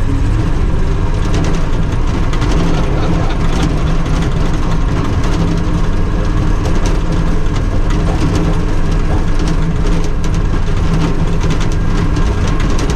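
Tucker Sno-Cat driving in third gear, heard from inside its cab: the engine runs steadily under load over a constant fast rattle and clatter of the tracks and cab.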